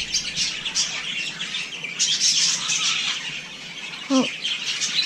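A flock of wild parrots calling, many short high-pitched calls overlapping in a dense chatter.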